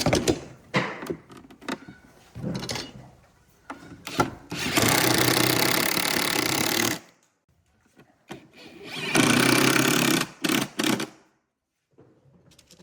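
A handheld electric power tool runs steadily for about two seconds and stops, then runs again for about a second and is switched on twice more in short blips. A few knocks and handling sounds come before the first run.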